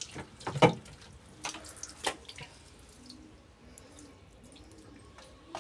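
Water splashing and dripping, with a few sharp knocks in the first two seconds, then only faint drips and ticks.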